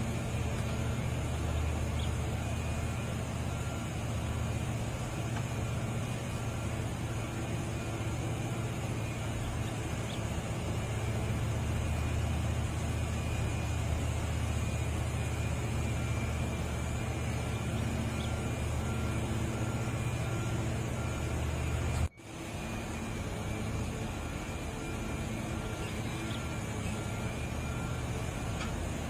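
Heavy diesel engine running steadily. The sound cuts out for an instant about three-quarters of the way through, then resumes.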